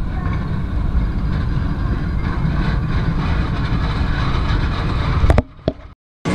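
Steady rumble of a moving passenger train heard from inside a carriage with an open window. A few sharp clicks come about five seconds in, then the sound cuts out completely for a moment near the end.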